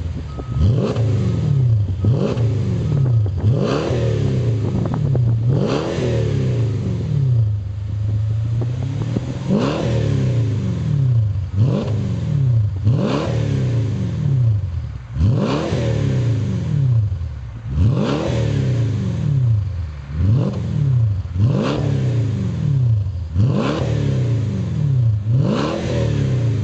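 Mercedes CL500 V8 through a CKS Performance quad-tailpipe sports exhaust, revved in quick repeated blips, about one every two seconds, each rising sharply and falling back to a low idle. There is a longer stretch of idle about a third of the way in.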